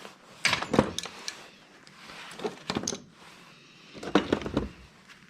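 Scrap parts being handled and sorted, clattering and knocking in three short bursts of rattles and clinks.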